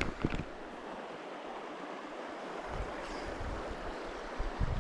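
Shallow stream flowing: a steady rush of running water, with a couple of short clicks right at the start and a few low bumps near the end.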